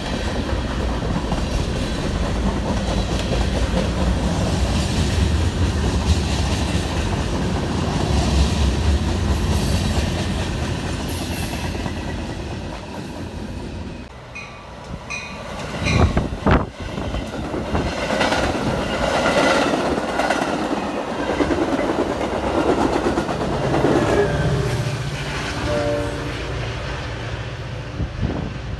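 A train passing on the tracks: a steady rumble of cars and wheels on the rails, easing off about halfway, then a few sharp clanks and the rumble building again.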